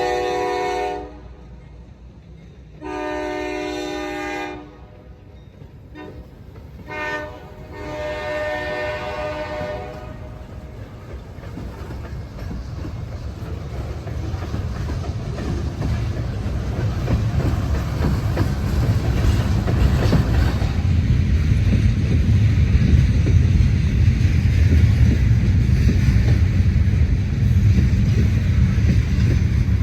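A diesel freight locomotive horn sounds the grade-crossing signal: the end of a long blast, then a second long blast, a short one and a final long one. After that the locomotive's engine rumble grows steadily louder as the train draws near and passes, with wheels clicking over the rail joints.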